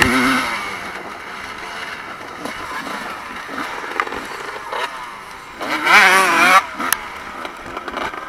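Evo-era motocross bikes racing past, engines revving with a pitch that wavers as the riders work the throttle. The loudest is a bike passing close about six seconds in.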